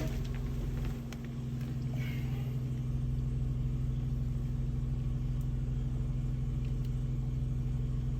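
Sewer water jetter's engine and pump running steadily at lowered pressure, a constant drone that dips slightly about a second in.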